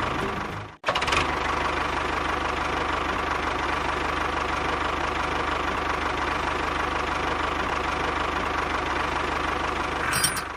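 A small engine or motor running steadily with a fine, even rhythm. It cuts out for an instant just under a second in and then carries on unchanged.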